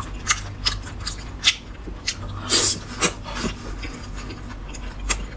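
Close-miked wet chewing and lip smacking of a man eating fatty braised pork belly: irregular small smacks and clicks, with one longer, louder mouth sound about two and a half seconds in.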